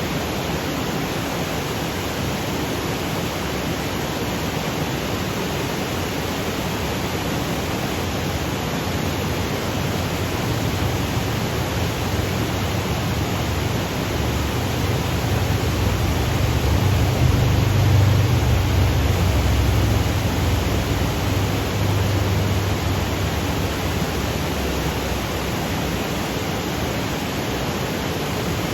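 Waterfall cascading over granite boulders: a steady rushing hiss, with a deep low rumble that swells up and fades back around the middle.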